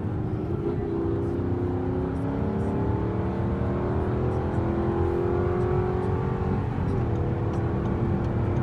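Audi R8's V8 engine heard from inside the cabin, accelerating hard: the engine note climbs steadily, dropping back briefly as the gears change shortly after the start and again about two-thirds of the way through. Steady road and tyre noise sits underneath.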